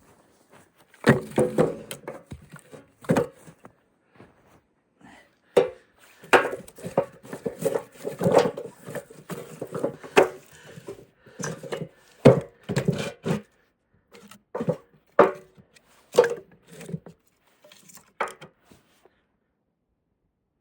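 Irregular knocks and clunks of wood, coming in quick clusters and stopping near the end.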